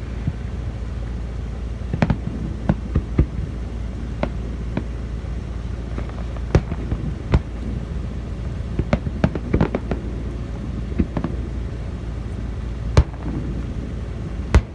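Fireworks going off: a long run of irregular sharp bangs and pops, the two sharpest near the end, over a steady low background rumble.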